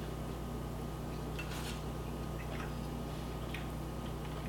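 A man chewing a bite of a breaded chicken sandwich: a few soft, short mouth clicks and ticks over a steady low electrical hum.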